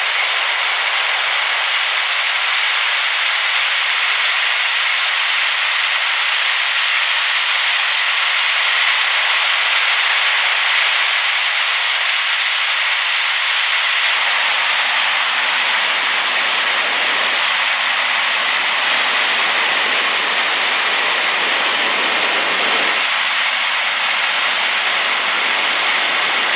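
Rain-swollen waterfall: a loud, steady rush of falling water, with a deeper rumble joining about halfway through.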